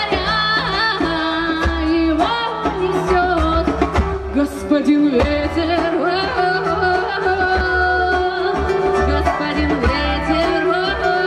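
Folk-rock band playing live: a wavering lead melody over guitar, bass and a steady drum beat.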